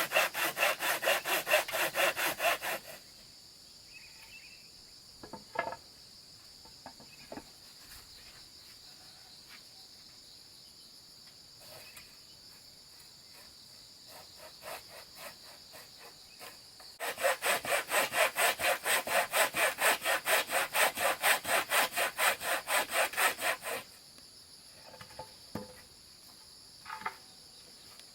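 Hand saw cutting wood with quick, even strokes, about three to four a second. The sawing comes in two spells: briefly at the start, then for about seven seconds in the second half. Between the spells, insects shrill steadily in a high thin tone.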